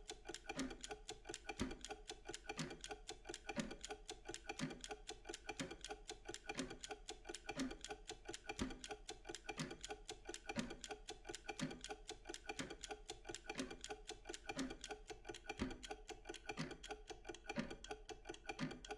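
A mechanical Pomodoro kitchen timer ticking steadily: fast, even ticks with a heavier tick about once a second.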